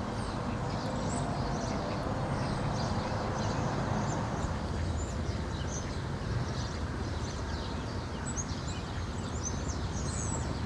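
Many small birds chirping and singing in a spring dawn chorus, short high calls scattered throughout, over a steady low background noise.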